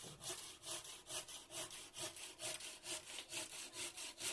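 Wood being hand-sawn: rhythmic back-and-forth strokes, about two to three a second.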